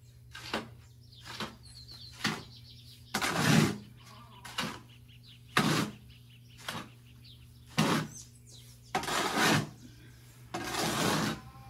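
A hand tool scraping and knocking while mixing cement mortar: short knocks about once a second, with three longer scrapes near a third of the way in and toward the end.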